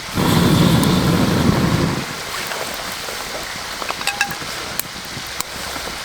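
Light rain falling with a steady hiss, with a louder low rush for the first two seconds and a few scattered sharp ticks about four to five seconds in.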